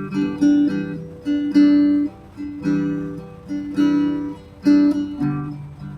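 Acoustic guitar being strummed, chords struck roughly once a second and left to ring.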